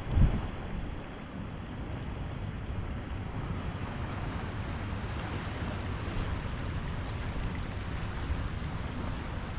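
Ocean surf washing steadily, with wind rumbling on the microphone. A short, loud low thump comes just after the start.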